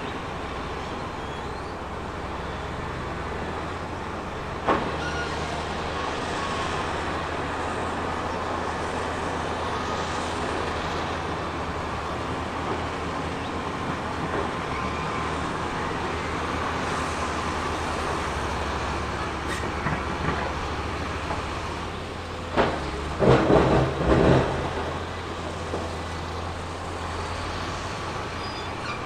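Heavy diesel earthmoving machine running steadily at work. There is one sharp knock about five seconds in and a burst of loud clanks and knocks around 23 to 24 seconds in.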